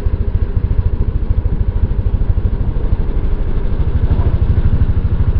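Motorcycle engine running steadily, with an even, low, rapid pulse of firing strokes.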